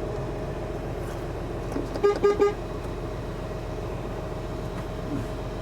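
Truck horn tooted three times in quick succession about two seconds in, to get another driver's attention, over the steady hum of the idling truck.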